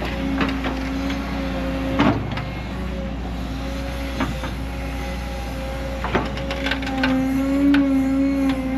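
Heavy diesel field machinery running steadily, with scattered sharp clanks and knocks; the engine note swells briefly near the end.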